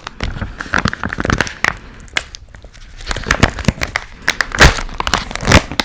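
Plastic pickle pouch being crinkled and torn open, with dense irregular crackling.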